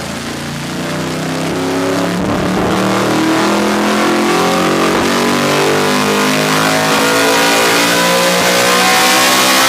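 Yamaha R1M's crossplane inline-four, breathing through a full titanium exhaust, pulling under load with its pitch climbing slowly and steadily and growing louder. It is loud enough that the rider says it hurts the eardrums.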